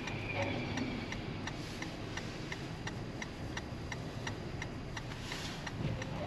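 A car's turn-signal indicator ticking steadily inside the cabin, about two to three ticks a second, over a low, steady road and engine rumble.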